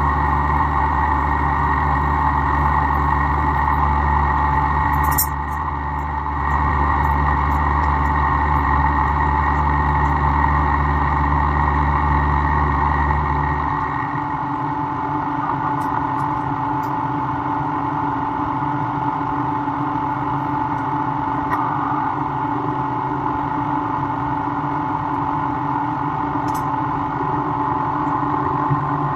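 Milling machine running steadily, cutting AR400 steel, with a steady set of tones and a deep hum that drops away about halfway through. A sharp click about five seconds in.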